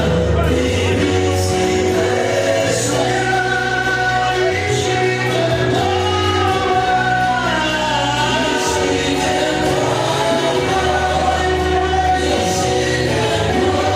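Gospel song with a choir of voices singing over sustained bass notes.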